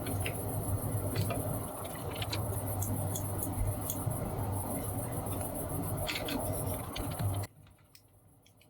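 A steady electrical hum with scattered small clicks, switched off suddenly about seven and a half seconds in.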